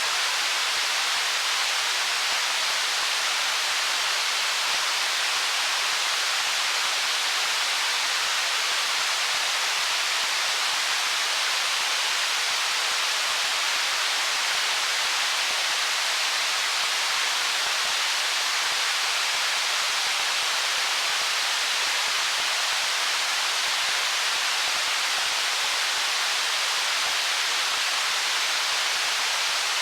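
Stream water flowing over rocks: a steady, even rushing that does not change.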